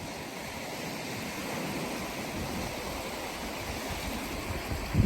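Steam hissing steadily from a steam room's steam outlet, an even rushing noise, with a low thump right at the end.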